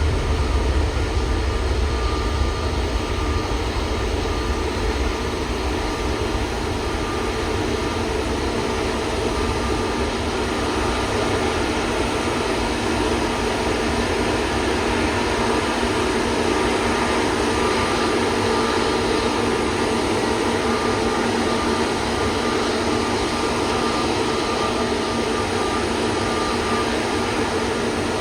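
Jet airliner engines running, a steady noise with a deeper rumble in the first few seconds and a faint steady whine over it.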